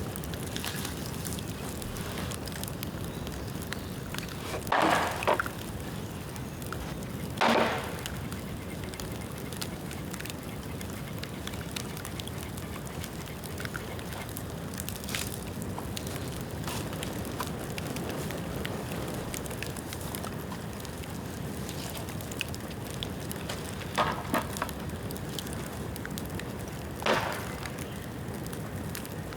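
A bamboo bonfire, the bamboo still wet from rain, burning with a steady crackle. Four short, louder bursts come from the burning bamboo, two in the first third and two near the end.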